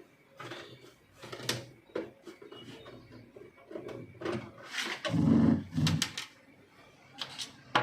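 Scattered plastic clicks, taps and knocks as the left side cover of an HP LaserJet 1020 printer is worked loose and prised off its casing, with a louder thump about five seconds in.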